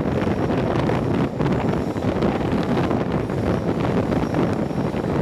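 Wind buffeting the microphone held out of a moving train's carriage window, over the steady rumble of the diesel-hauled coaches running on the rails.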